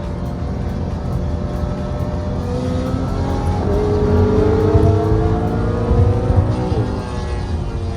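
Straight-piped BMW E92 M3's V8 exhaust, cruising steadily, then rising in pitch as the car accelerates through a gear, with a sharp drop in pitch near the end at the upshift.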